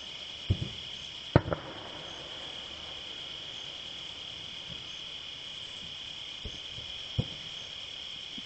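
Crickets chirring steadily in the night, with a handful of distant firework bangs thudding across it, the loudest about a second and a half in.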